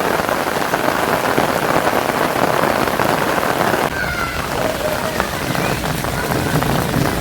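Heavy rain pouring steadily, a dense hiss. About four seconds in the hiss abruptly thins and a few faint short tones come through.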